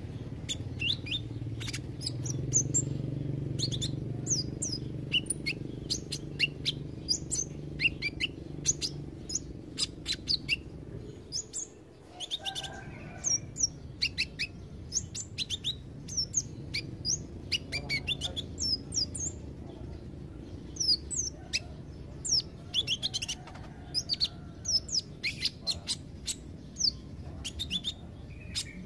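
A sunbird singing: a fast, continuous run of short, high, sharply falling chirps and twitters.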